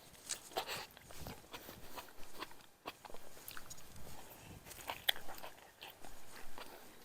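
Dry, dying tomato plant stems and leaves crackling and rustling as they are handled and pulled apart, in irregular crunchy clicks.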